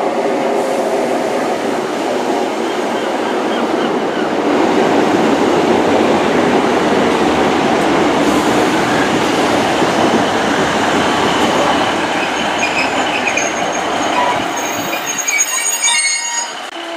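Class 153 diesel multiple unit, coupled to a Class 150, running into the station with the heavy rumble of wheels on rails. In the last few seconds high, wavering squeals join in as it brakes to a stop, and the noise then falls away.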